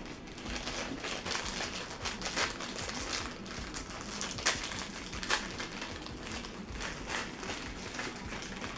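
A plastic snack bag crinkling and rustling as it is handled and opened, with irregular crackles throughout.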